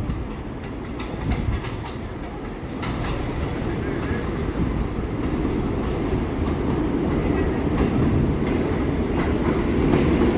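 New York City subway train running on the rails, wheels clicking over rail joints, getting steadily louder.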